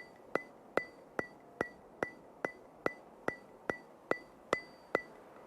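Evenly spaced sharp ticks, about two and a half a second, each with a brief high ring, like a metronome or a clock ticking.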